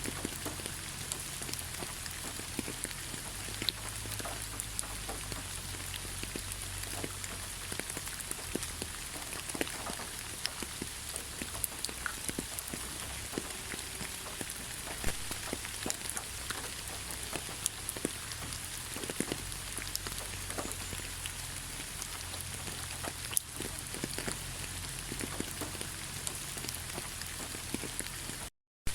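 Steady rain falling through a thick pine forest, a constant hiss with many individual drops ticking close by. The sound cuts out for a moment near the end.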